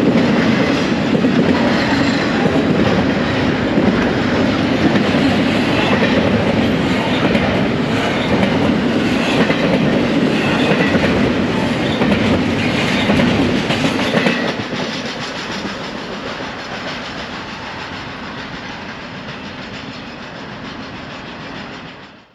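Double-stack intermodal freight train passing close by: a steady heavy rumble with steel wheels clattering over the rails. About two-thirds of the way through the sound drops, then fades away and cuts off at the very end.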